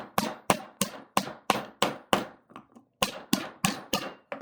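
Hammer blows on a wood block, driving a new axle seal into a truck's rear wheel hub: about a dozen sharp strikes at roughly three a second, with a brief pause just past halfway before the strikes resume.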